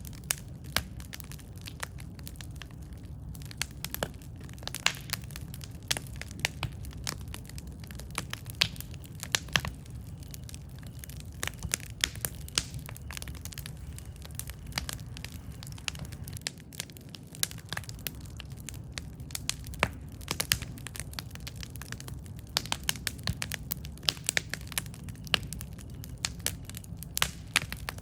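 Campfire crackling: irregular sharp pops and snaps, thicker in the last few seconds, over a low steady rumble.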